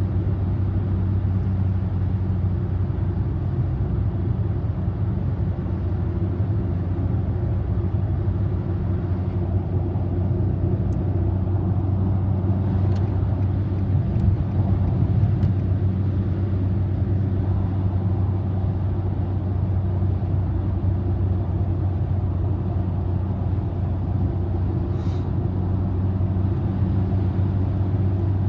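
Steady road and engine noise inside a car cruising on an expressway: a constant low hum over tyre noise, with a few faint clicks around the middle and once near the end.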